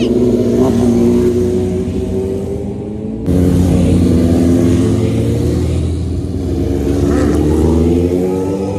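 Motorcycle engine running under way, its pitch slowly falling and then rising again as the revs change. The sound changes abruptly about three seconds in, as at a cut between clips.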